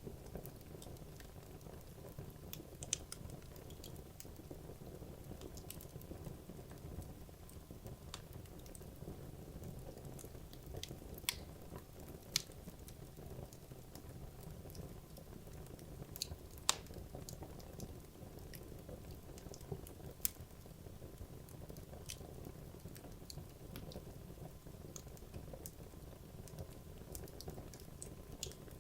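Wood logs burning in a fireplace: a soft, steady low hiss of the flames with scattered sharp crackles and pops, a handful of them louder than the rest.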